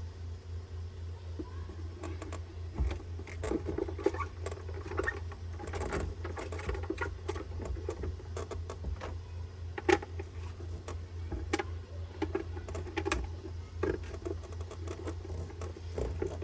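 Irregular clicks, taps and rattles of plastic pool-vacuum housing parts and small screws being handled and fitted together, over a steady low hum.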